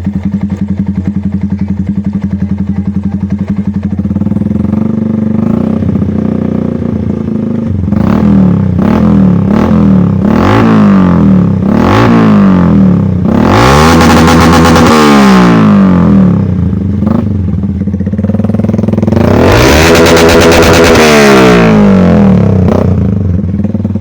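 Yamaha MX King 150 single-cylinder motorcycle engine running through an aftermarket X1 Speed exhaust. It idles steadily, then is blipped in a string of short revs about once a second. It is held high twice for two to three seconds, once about midway and again near the end, dropping back to idle each time.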